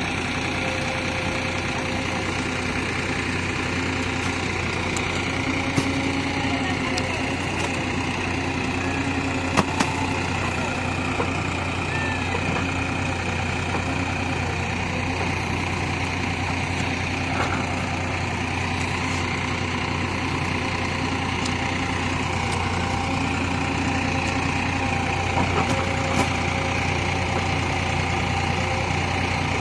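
Heavy diesel engine idling steadily, with a few short sharp knocks now and then.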